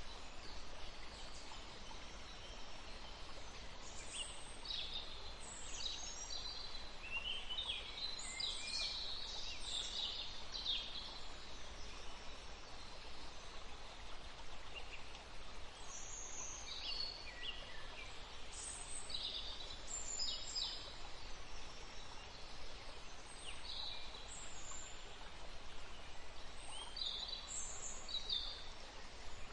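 Birds singing and chirping in short high phrases over the steady rush of a forest stream. The calls come in clusters with quieter gaps between them.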